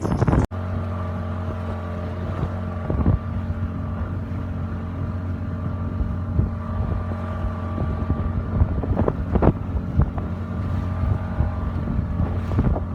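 Boat engine running at a steady drone, with wind buffeting the microphone now and then.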